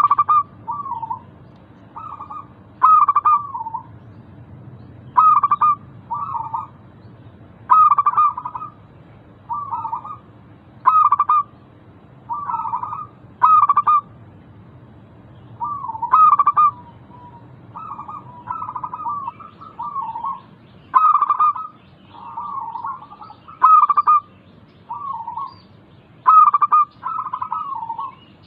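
Zebra doves (local perkutut) cooing. Short calls follow one another about once a second, each starting on a sharp note and running into a brief trill.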